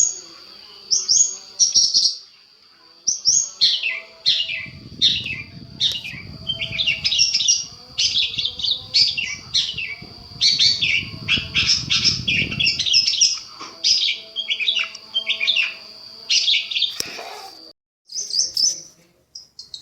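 Long-tailed shrike (cendet) song played as a masteran training recording: a fast run of short chirps and falling notes over a steady high whine. A low rumble runs under it from about 4 to 13 seconds in, and near the end it breaks off with a click and a brief gap.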